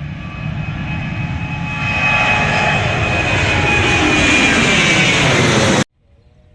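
Airliner jet engines running up to high thrust: a loud jet roar with a steady whine that swells over the first couple of seconds and holds, the jet blast at full power. It cuts off abruptly near the end.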